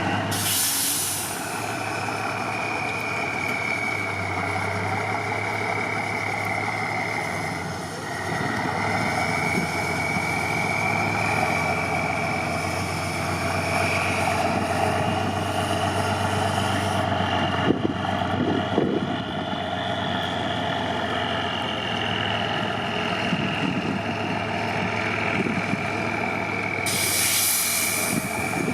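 Trial truck's diesel engine working steadily, with a high whine that rises and falls with the revs. Two short bursts of hiss, about a second in and near the end.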